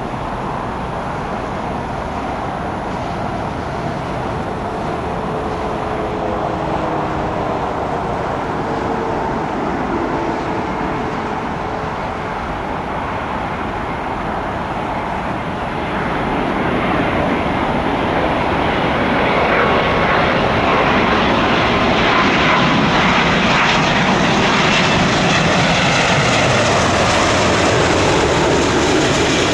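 Airliner jet engines running steadily, growing louder and brighter from about halfway through, with faint gliding whine tones near the end.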